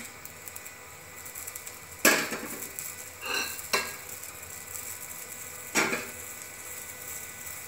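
A rice-batter chila frying in mustard oil on an iron tawa, with a faint steady sizzle. Three sharp metal clinks from the steel spatula come about two, four and six seconds in.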